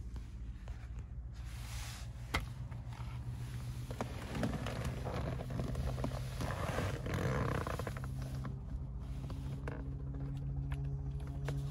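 Audi urS6's turbocharged inline-five engine idling steadily, heard from inside the cabin. Scattered clicks and rustles of handling occur over the first half.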